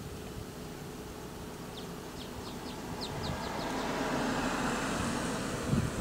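A bird gives a quick series of about nine short, high notes over roughly two seconds. A broad rush of noise then swells up and holds, with a few low thumps near the end.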